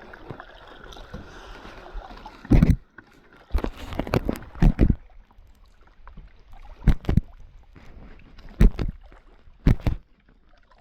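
Kayak paddling: a series of sharp splashes and knocks at irregular intervals, the loudest grouped around four seconds in and then spaced a second or two apart.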